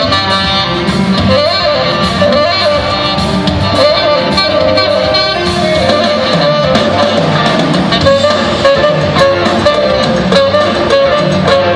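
Live rock band jam, with a lead guitar playing gliding, bending notes over bass and drums.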